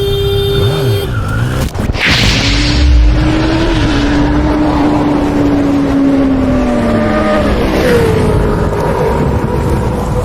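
Sport motorcycle engine running at speed under heavy wind rumble, its note holding steady and then dropping in pitch about two-thirds of the way through as it slows.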